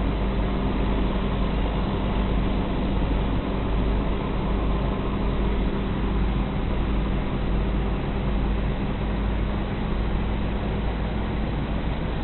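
Motor vehicle driving on a road: a steady engine drone with road and wind noise, and no let-up.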